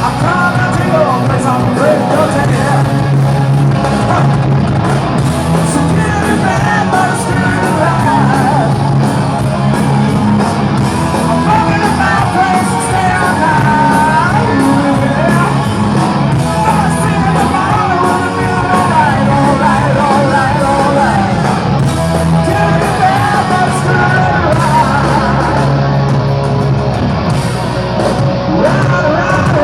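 Live hard rock band playing, with a lead singer's vocals over electric guitars, bass and drums.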